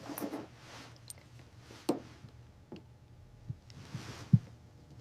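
Faint heartbeat: soft low thumps a little more than once a second over a low hum.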